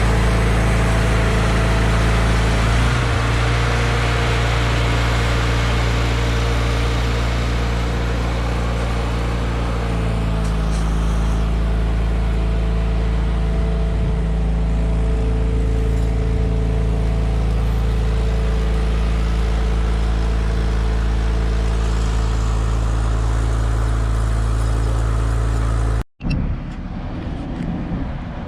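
A large engine running steadily under a low, even drone, its pitch shifting a little about three seconds in and again about ten seconds in. Near the end it cuts off abruptly into a different, quieter sound.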